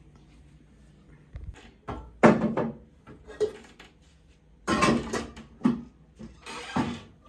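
Several short knocks and clatters of household things being handled, the loudest about two seconds in and again around five seconds in.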